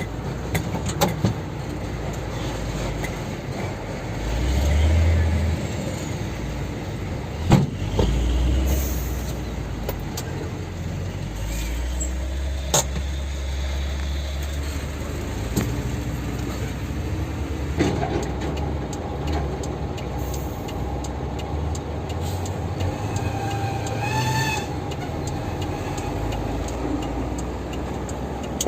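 Heavy dump truck engine running with a low rumble, with a few sharp knocks and rattles and, in the second half, a steady whine that rises briefly near the end.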